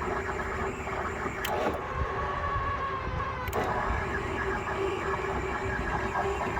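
A car's steady mechanical hum with a few sharp clicks, the clicks about two seconds apart.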